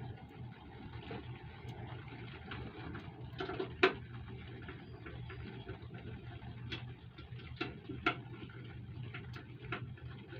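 Bolts with lock washers being tightened into a motorcycle sissy bar with a hand tool: scattered, irregular metal clicks and ticks, the sharpest about four seconds in, over a faint low steady hum.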